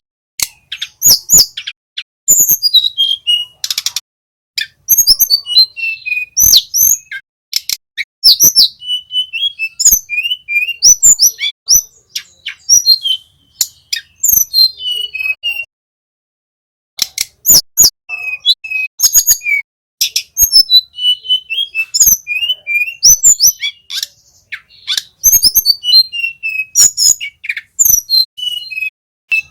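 Small songbird singing a rapid, varied song of high chirps, slurred whistles and sharp clicks, delivered in quick runs. There is a pause of about a second and a half midway.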